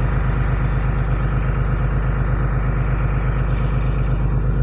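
Cummins diesel engine idling steadily as it warms up on a cold morning, with an even low pulse.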